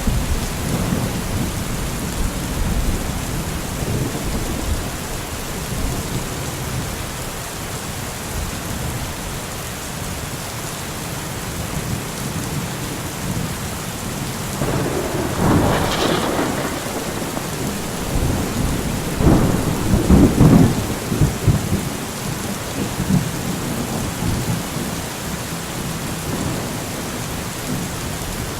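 Steady heavy rain with rolling thunder: low rumbles at the start, then louder rumbling claps about halfway through and again around two-thirds of the way in.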